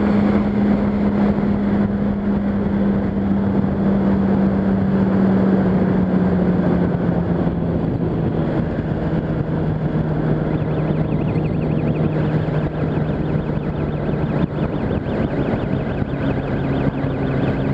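Yamaha R1's inline-four engine running at steady highway speed under a constant rush of wind noise. The engine note slowly falls over the stretch as the bike eases off, and a second, higher engine tone comes in near the end.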